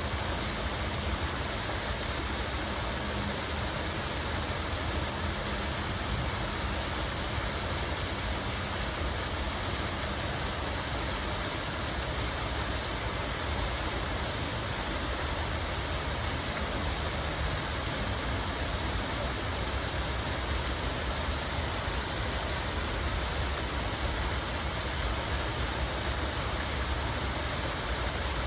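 Steady rushing of running water in a park, an even hiss with a low rumble underneath.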